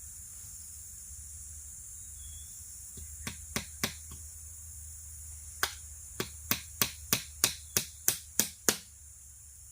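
Steady high insect chorus of crickets or cicadas. Over it come sharp clicks or knocks: three a little after three seconds in, then a run of about ten evenly spaced, about three a second, getting louder toward the end.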